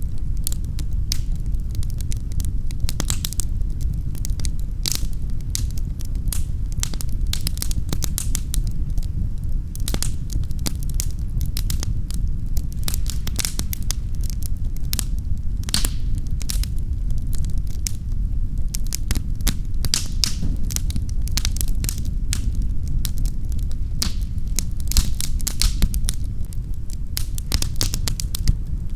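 Wood fire in a fireplace crackling: dense, irregular pops and snaps over a steady low rumble.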